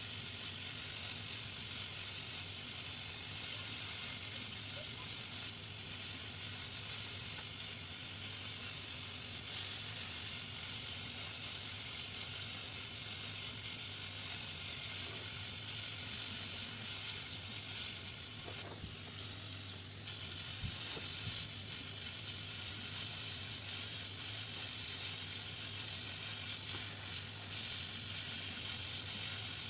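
Steady airy hiss of a hot-air rework station blowing on a circuit board to desolder a shorted HDMI IC, over a low steady hum. The hiss dips briefly about two-thirds of the way through, with a couple of faint clicks.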